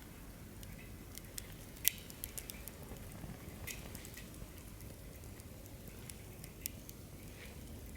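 Wood fire in a campfire stand burning with a low steady rumble and sporadic crackles and pops, the sharpest pop about two seconds in and another near the end.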